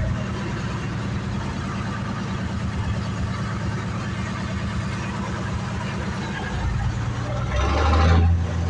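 Engine of a 2½-ton 'Deuce and a half' army truck running at low parade speed, a steady low rhythmic chugging. Near the end it swells louder for about a second, with a brief rushing hiss.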